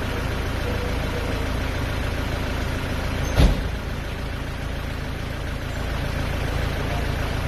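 Truck engine idling steadily, with one sharp knock about three and a half seconds in.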